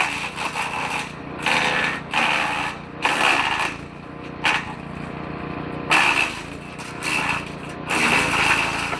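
Woodchipper engine running steadily while the shredder drum chews through branches in repeated short bursts of loud chipping, about one a second, as material is fed in a bit at a time.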